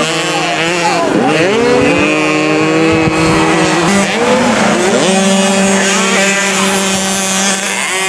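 Several small 50cc two-stroke motocross bike engines revving together, their notes overlapping at different pitches. About a second and a half in and again about five seconds in, the pitch drops and then climbs back to a high, held rev as the bikes accelerate.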